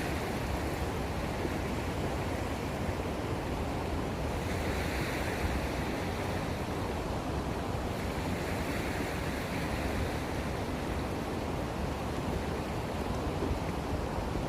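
Sea waves washing at the shore as a steady rushing noise that swells softly twice, with wind rumbling on the phone's microphone.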